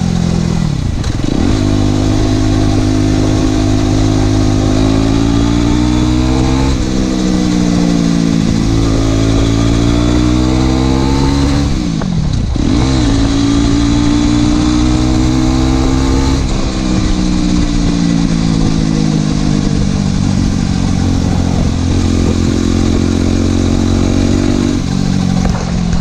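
Aprilia SX 125's single-cylinder four-stroke engine through an Arrow exhaust with the dB killer removed, running under load while being ridden. The revs climb and fall throughout, with sharp dips and quick recoveries about a second in and again near halfway.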